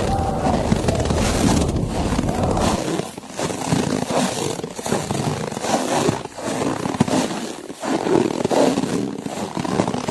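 Footsteps crunching through deep snow, one step after another, over a rushing wind. A low rumble drops away about three seconds in.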